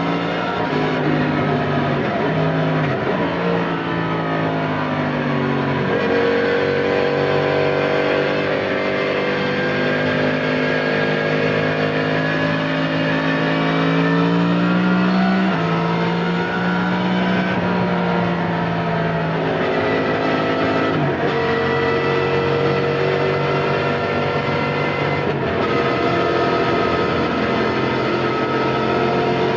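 Yamaha MT-10 SP's crossplane inline-four engine running through an Akrapovic titanium slip-on exhaust while riding. The engine note steps down a few seconds in, climbs slowly, drops sharply about halfway through, and drops again about two-thirds of the way in.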